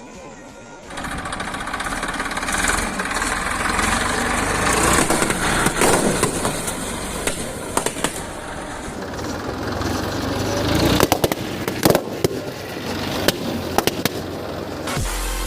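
Tractor engine running as the tractor rolls over rows of inflated balloons, with a quick run of sharp pops near the end as balloons burst under the tyres.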